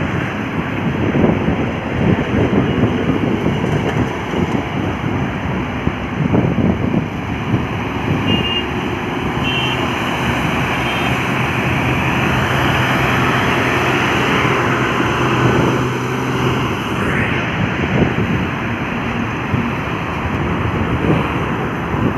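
Heavy trucks running past on a highway, a continuous loud rumble of engines and tyres, with one engine's steady drone standing out for several seconds midway. Two short high beeps sound about eight and nine seconds in.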